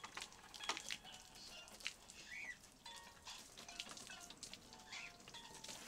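Faint short chirps from a bird, each rising and falling, a couple of seconds apart, with a few light clicks and knocks.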